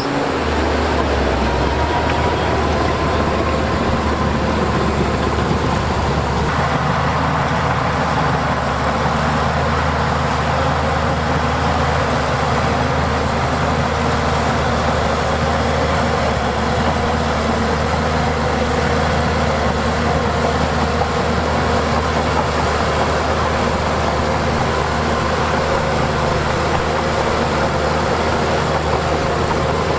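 Heavy diesel engine of earthmoving machinery running steadily under load, with its tone shifting about six seconds in.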